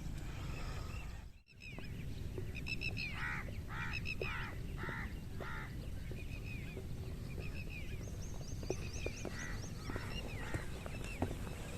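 Indian peafowl calling: a run of about six loud, repeated honking calls starting about two and a half seconds in, followed by fainter, higher bird chirps. A low wind rumble runs underneath.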